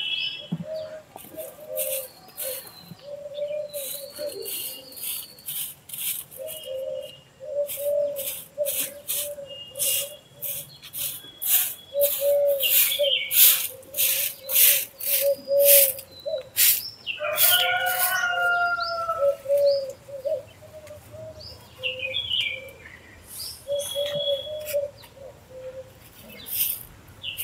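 Birds calling: a low, repeated cooing with scattered higher chirps. Over them run short scratchy strokes, about two a second, loudest in the middle of the stretch.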